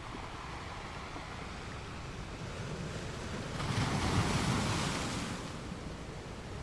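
Gentle ocean waves washing onto a sand beach: a steady hiss of surf, with one wave breaking and rushing in about halfway through, then fading away.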